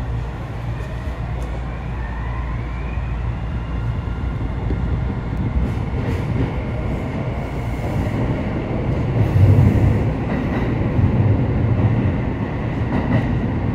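Electric commuter train running through an underground tunnel, heard from inside the front car: a steady rumble of wheels and tunnel noise, with a faint rising motor whine in the first few seconds as it gathers speed.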